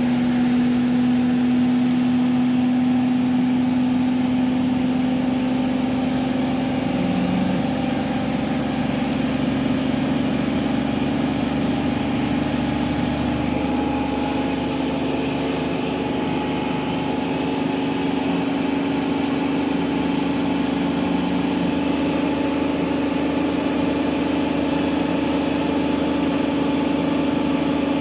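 Hotpoint ActiveCare washing machine spinning: a steady motor and drum hum, its pitch edging slightly higher about ten seconds in as the spin speed creeps up.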